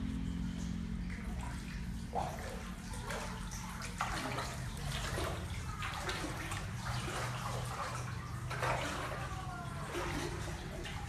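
Water splashing and sloshing in a small pool as a cat paddles through it, in irregular splashes over a steady low hum.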